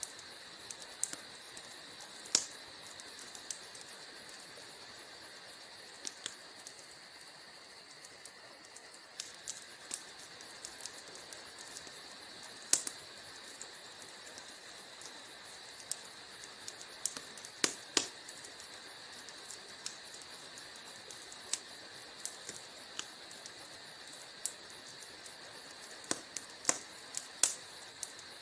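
Wood fire crackling in a fireplace: irregular sharp pops and snaps over a faint steady hiss, with a few louder pops and a quick run of snaps near the end.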